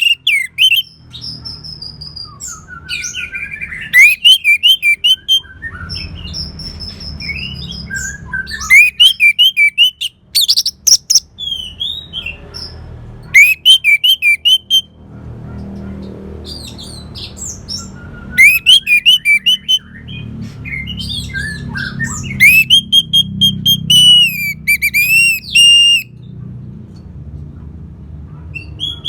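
Orange-headed thrush singing: loud, varied phrases of whistled notes sliding up and down and quick rapid-fire series, in bursts of a second or two with short pauses between.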